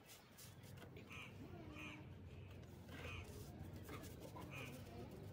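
Faint bird calls: about five short calls, roughly a second apart.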